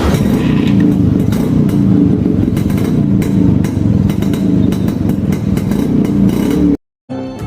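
Yezdi Roadking's two-stroke single-cylinder engine running, with a rapid, even firing beat. It breaks off suddenly near the end.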